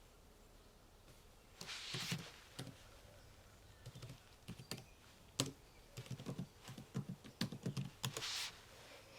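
Typing on a computer keyboard, starting about a second and a half in: irregular clicks of keystrokes, with two longer, noisier strokes, one early and one near the end.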